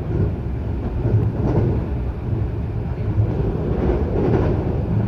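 Running noise of a local electric train heard from inside the carriage: a steady low rumble of the wheels on the rails and the running gear as the train travels along the line.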